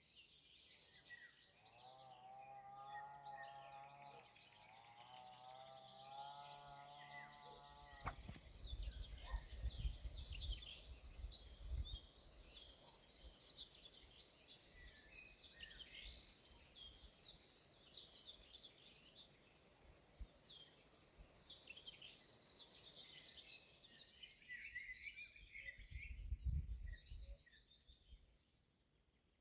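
Several wild birds singing, with a continuous high, dry buzzing trill that starts about eight seconds in and stops a few seconds before the end. A steady hum of several tones runs through the first several seconds, and a few low thumps break in twice.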